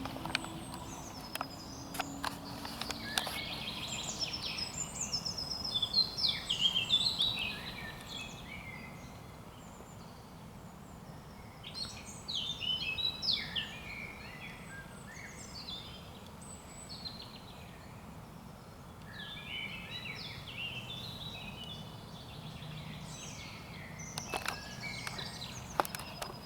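Songbirds singing, among them a Eurasian blackcap and a European robin: high, varied warbling phrases a couple of seconds long, separated by short pauses, over a faint steady background hiss. The loudest phrases come a few seconds in.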